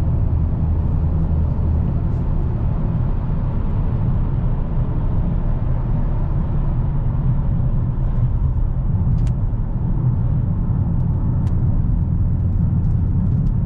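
2022 Dodge Challenger Hellcat with its supercharged 6.2-litre V8, cruising steadily: an even, low drone of engine and tyre noise.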